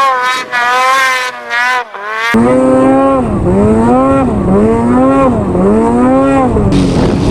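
Snowmobile engine running hard, its pitch rising and falling with the throttle. About two seconds in, the sound changes to a lower engine note that swings up and down roughly once a second as the sled works through deep powder.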